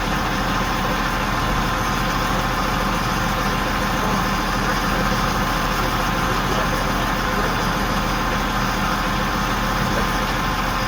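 Large mobile crane's engine running steadily at an even pitch and level.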